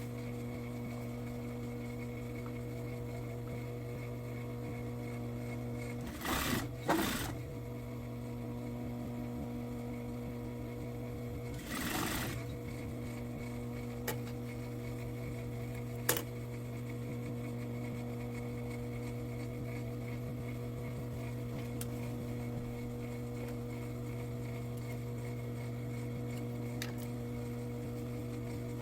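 Sewing machine running steadily as it stitches a trouser waistband seam, with a couple of short scuffs about six and twelve seconds in and a single sharp click a few seconds later.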